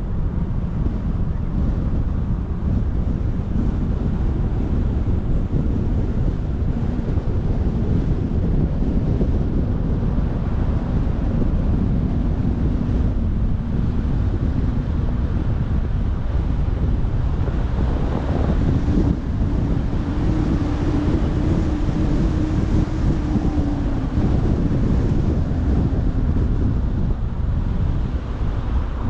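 Wind buffeting the microphone: a loud, ragged rumble, with a faint steady hum that comes through more clearly past the middle.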